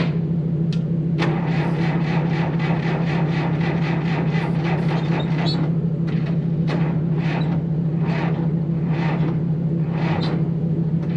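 Bulldozer's diesel engine being cranked by its starter from about a second in: a fast, even chugging that turns slower and uneven in the second half without catching, the sign of weak batteries. A steady engine hum runs underneath.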